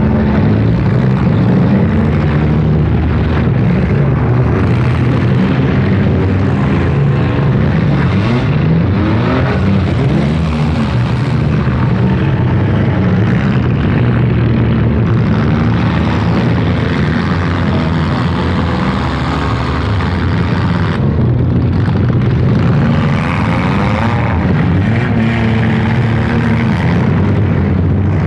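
Several four-cylinder demolition-derby cars' engines running and revving together, a loud continuous engine drone that rises and falls in pitch.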